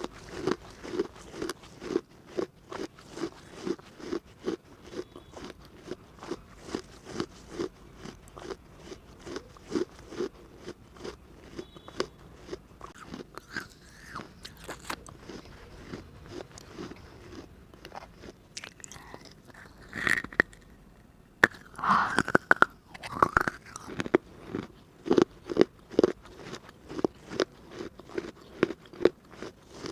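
Close-miked biting and chewing of a very hard baked-clay diya: a steady run of gritty crunches, about two to three a second, with a cluster of louder, sharper bites past the middle.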